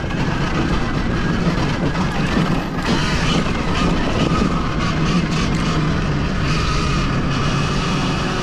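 Sur-Ron Ultra Bee electric dirt bike being ridden: a steady, loud rushing noise of the ride.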